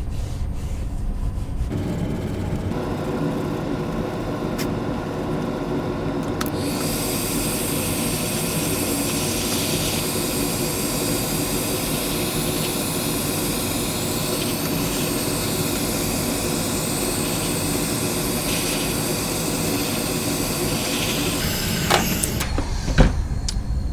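Electric heat gun running: a steady blowing rush with a motor whine. It starts about two seconds in, turns hissier a few seconds later, and cuts off shortly before the end.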